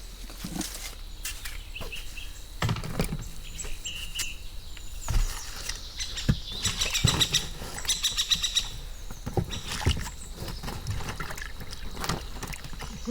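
Small birds chirping, over scattered sharp knocks and clicks, with a fast, evenly spaced high rattle lasting about a second and a half midway through.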